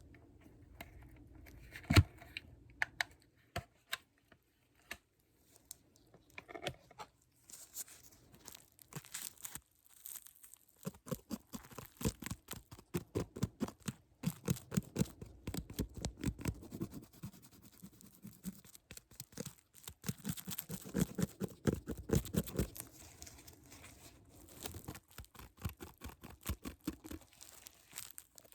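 Close-miked ASMR trigger sounds: rapid tapping, scratching and crinkling in dense clusters, with one sharp louder click about two seconds in.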